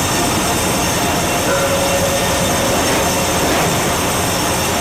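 Sawmill machinery running with a loud, steady industrial din.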